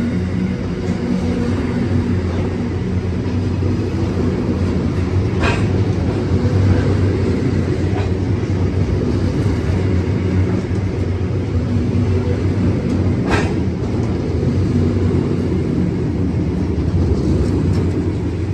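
A train running past: a steady heavy rumble with a low hum, broken by two sharp clicks about eight seconds apart.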